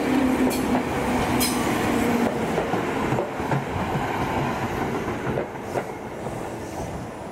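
Electric commuter train running past, its wheels clicking over rail joints, the sound fading as it moves away.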